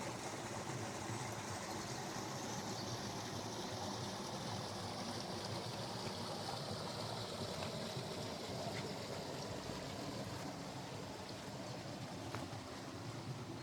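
A small stream of running water flowing steadily, easing off slightly near the end.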